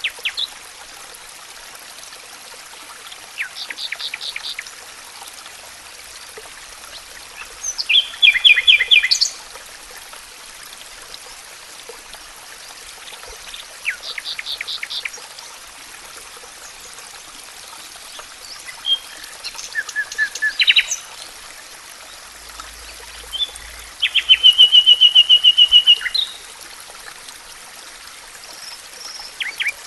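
Songbirds singing short phrases of rapid notes and trills, one every five seconds or so, over a steady trickle of running water. The loudest phrases are a trill about eight seconds in and a longer one about twenty-five seconds in.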